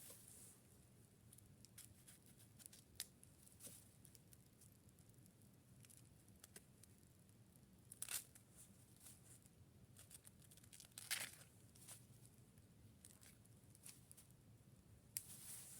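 Near silence with faint scattered clicks and short rustles, a little louder about 8 and 11 seconds in.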